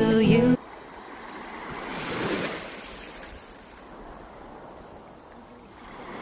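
Background music stops abruptly about half a second in, leaving a soft outdoor rushing noise that swells around two seconds in and then fades.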